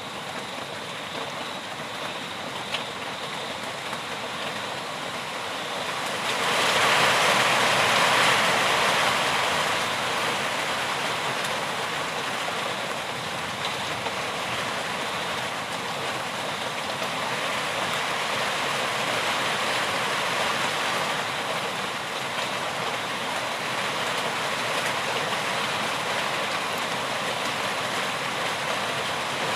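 Steady rain falling. It grows heavier about six seconds in and eases off again by about ten seconds.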